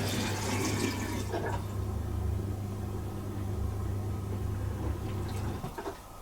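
Bosch Serie 4 SMS46MW05G dishwasher running: a steady low pump hum with water rushing and swishing inside, loudest in the first second or so. The pump cuts off about five and a half seconds in.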